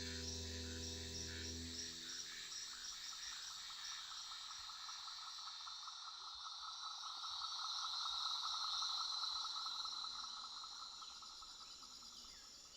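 Rainforest insect chorus: fast, evenly pulsing trills that swell about eight seconds in and fade toward the end. A held musical chord dies away in the first two seconds.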